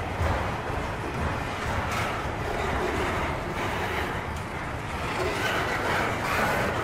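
Freight train rolling past, a steady rumble with wheel-on-rail noise.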